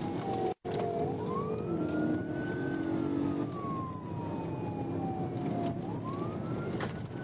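Police car siren on a slow wail, rising and falling over a few seconds, over a steady lower hum of engine and road noise from a car at speed. The sound drops out for an instant about half a second in.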